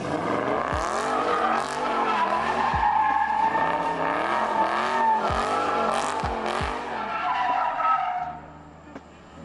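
Car drifting: tires squealing steadily while the engine revs rise and fall over and over, the squeal fading out about eight seconds in. The revving is what an onlooker calls too much gas.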